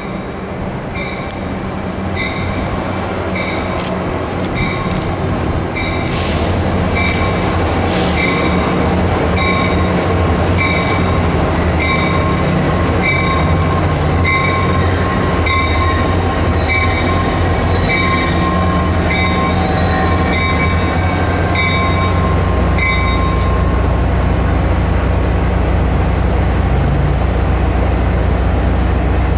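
Caltrain diesel commuter train pulling into the station, its rumble swelling as it comes closer while its bell rings about once a second; the bell stops a few seconds before the end.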